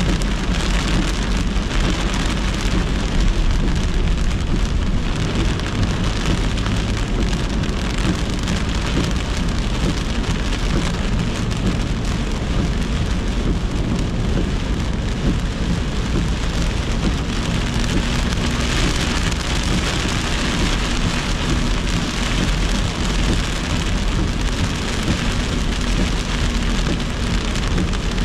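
Heavy thunderstorm rain beating on a moving car's roof and windshield, heard from inside the car as a loud, steady hiss over a low rumble of tyres on the wet road.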